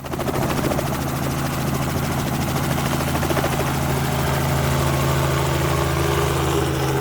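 Helicopter in flight: a steady drone of engine and rotor, holding one even pitch throughout.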